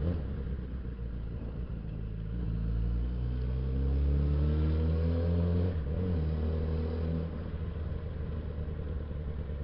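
Suzuki Bandit 650S's inline-four engine heard while riding: steady at first, then rising in pitch as it accelerates, with a short dip near the middle like a gear change, before it pulls up again and settles.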